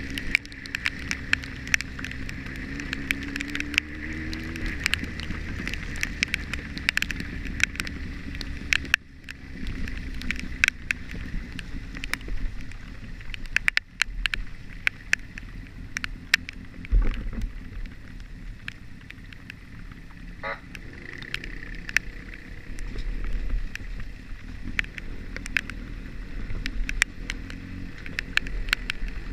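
A vehicle engine running on the road, rising in pitch over the first few seconds, under steady wind rumble on the microphone. Many sharp ticks, like raindrops striking the camera, are scattered throughout.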